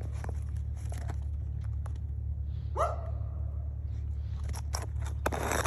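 German shepherd gives one short bark about three seconds in, among scattered light clicks and knocks and a brief scraping sound near the end, over a steady low hum.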